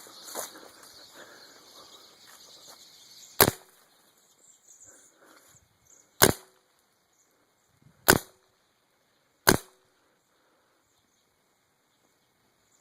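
Four sharp pops from an unloaded paintball gun fired on air alone, the first about three seconds in and the rest one to three seconds apart. Birds chattering in the trees are heard before the first shot and fall quiet after it.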